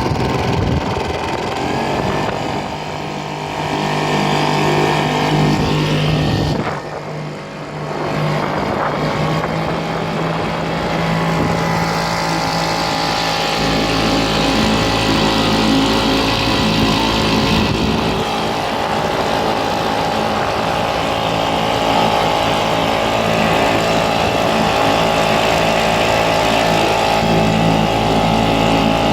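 An engine running steadily, with a brief dip in level about seven seconds in.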